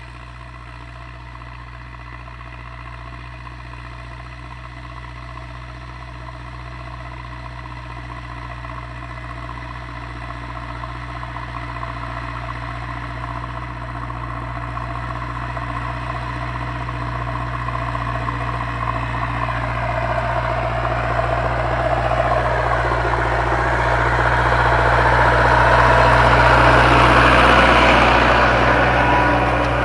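Zetor 7245 tractor's diesel engine running steadily while pulling a plough, growing louder as it comes closer, loudest about 27 seconds in, then easing off slightly as it passes.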